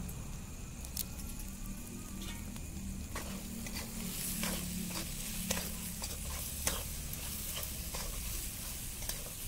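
Tomato masala sizzling in oil in an aluminium kadhai, with a metal spatula scraping and clicking against the pan as it is stirred, starting about three seconds in.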